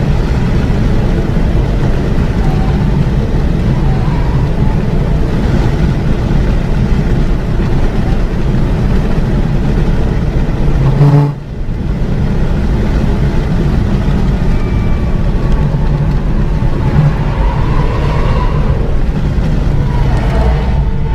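Renault Mégane 3 RS Trophy's turbocharged 2.0-litre four-cylinder running hard at speed, mixed with road and wind noise. About eleven seconds in, the sound swells briefly and then drops away for a moment before picking up again.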